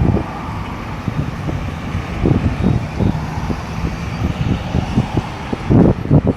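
Road traffic moving through a roundabout: a continuous rumble of engines and tyres, with passing vehicles swelling louder now and then, most of all near the end.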